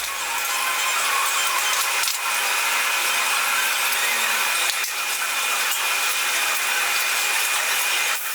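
Small electric power tool running steadily while it cuts metal, with a steady high whine over a hiss, and brief dips about 2, 5 and 8 seconds in.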